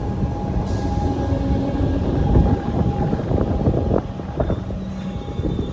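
Melbourne Metro suburban electric train rolling past the platform: a steady electric hum under rumbling wheel noise, with a few sharp clacks of wheels over the rail joints around the middle.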